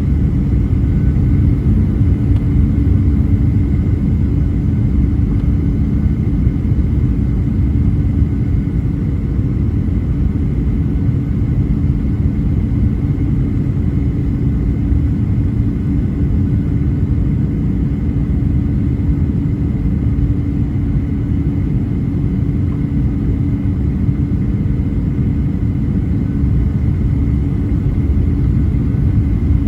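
Steady cabin drone of a Boeing 737-800 in flight, heard from a window seat: a deep, even rumble of airflow and its CFM56-7B engines, with a steady hum running through it.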